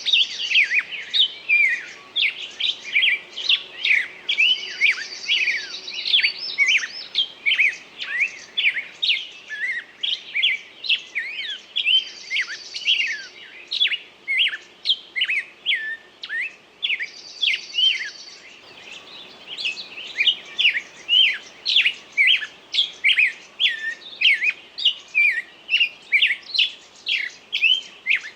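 A songbird singing: a rapid, continuous run of short, sharp chirps, with a higher, buzzy trill breaking in every few seconds during the first two-thirds.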